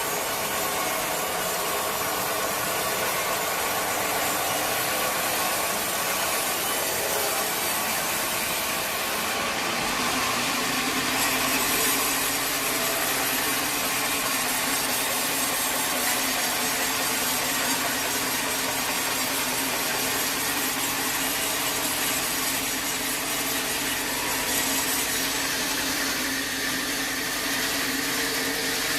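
A sawmill saw cutting a teak log: a steady run of blade noise through the wood over a constant machine hum, its lower tones shifting about ten seconds in.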